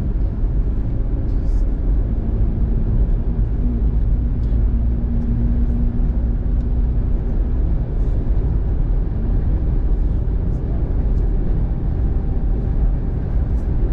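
Steady road noise of a car driving on a wet road in the rain, heard from inside the cabin: a low rumble of tyres and engine, with scattered faint light ticks.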